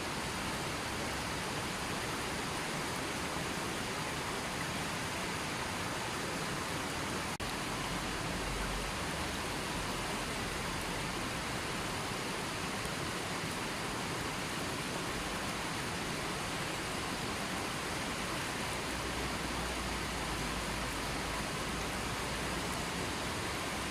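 River water flowing and rushing in a steady, unbroken wash, with a momentary dip about seven seconds in.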